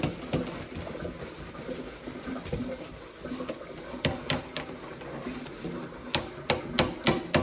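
Running water with a Moluccan cockatoo bathing in it: a steady watery hiss with sharp, irregular splashes, bunched about four seconds in and more thickly near the end.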